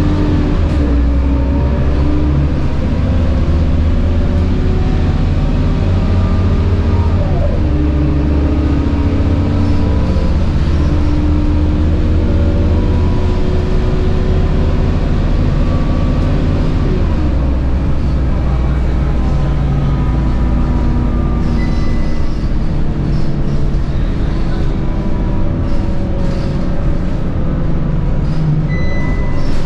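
Scania K230UB bus under way: its 9.3-litre DC9 diesel drones and its ZF Ecomat 6HP504C automatic gearbox whines high-pitched. The engine's pitch glides with speed and shifts sharply about seven and seventeen seconds in as the gearbox changes gear.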